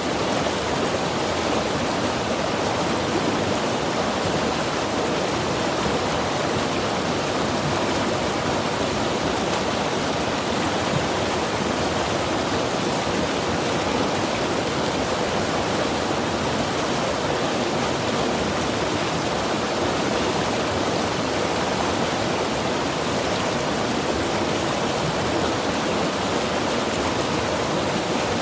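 Mountain river rushing in a steady, even roar of flowing water.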